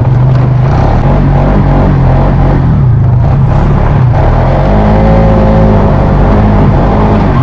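Four-wheeler (ATV) engine running under throttle while riding: a loud, steady drone whose pitch rises and falls about halfway through.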